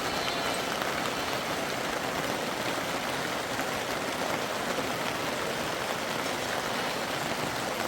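Steady, even hiss of water noise, like heavy rain or rushing water.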